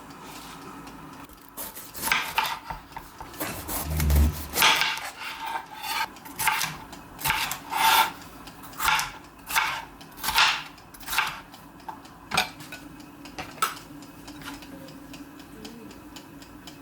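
A series of short scraping and rubbing strokes of kitchenware, about one a second and irregular, with a dull thump a few seconds in.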